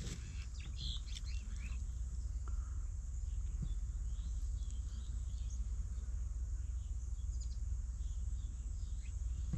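Small birds chirping now and then, over a steady low rumble and an even high hiss.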